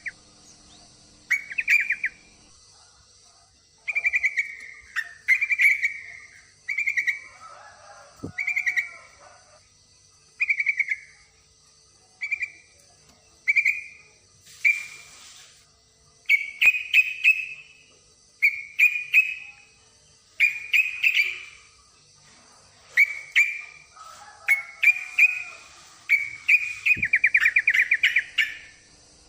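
Yellow-vented bulbul (trucukan) giving short, bubbly chattering calls, repeated about once a second. It is the call of a female in breeding condition calling to a male.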